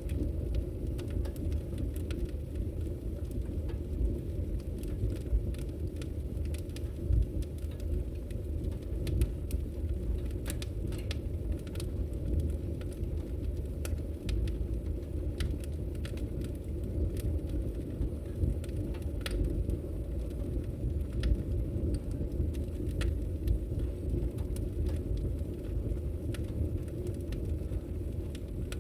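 Wood logs burning in a fireplace, crackling with many scattered sharp pops over a steady low rumble.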